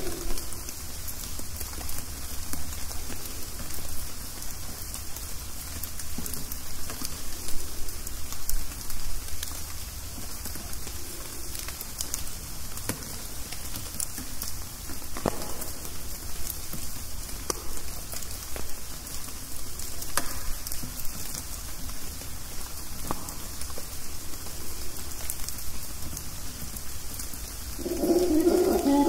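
Rain dripping steadily through the rainforest canopy: a constant patter with scattered louder single drops. About a second before the end, mantled howler monkeys start howling again in a deep, drawn-out chorus.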